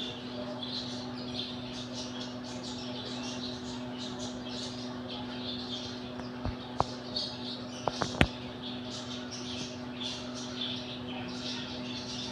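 Birds chirping on and off, over a steady low hum. A few sharp clicks come a little past halfway, the last of them the loudest sound.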